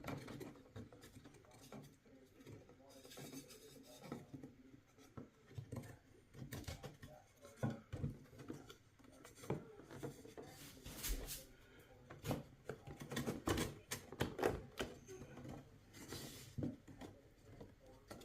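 Wooden beehive frame parts and a waxed foundation sheet being handled and pressed together by hand: scattered light knocks, taps and rubbing, busiest about ten to fifteen seconds in.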